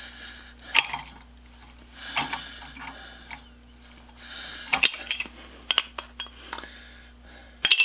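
Steel tools clinking and scraping against a rusted steel pivot pin and the forge's ash gate as the pin is worked free, with several sharp metal clinks spread through.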